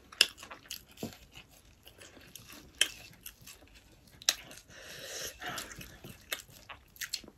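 People chewing and biting pieces of sel roti, the fried Nepali rice-flour ring bread, with sharp mouth clicks scattered about a second apart.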